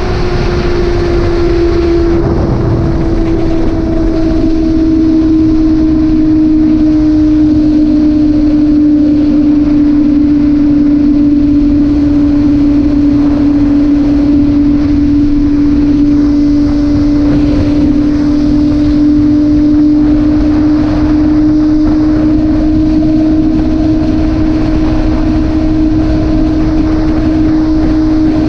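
Motorcycle engine running at a steady cruising speed, its drone dipping slightly in pitch over the first few seconds and then holding steady, with wind noise over the microphone.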